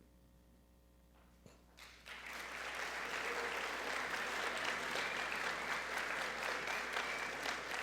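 Audience applauding, starting after a short quiet about two seconds in, with a click or two just before, and holding steady.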